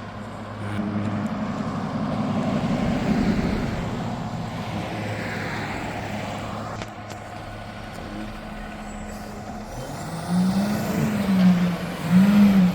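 Diesel engine of a Peterbilt McNeilus front-loader garbage truck running, swelling louder about a second in. Near the end it revs up and down several times.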